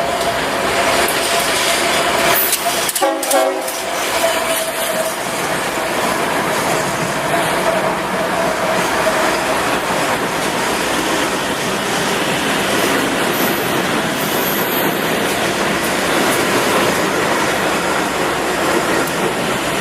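BNSF freight train rolling past, its wheels clattering over the rails in a steady, loud din. A held tone sounds over the first half or so and fades out about halfway through.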